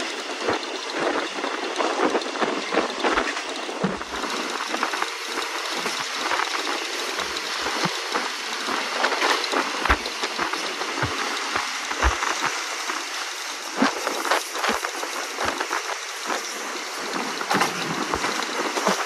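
Passenger train running, heard from inside a carriage: a steady rushing noise with frequent short rattles and knocks.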